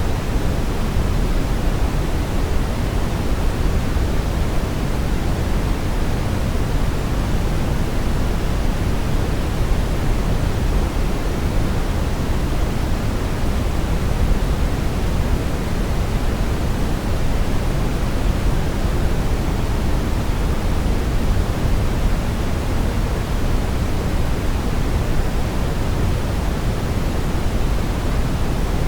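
Steady brown noise: an even, deep rushing hiss weighted towards the low end, with no changes or events.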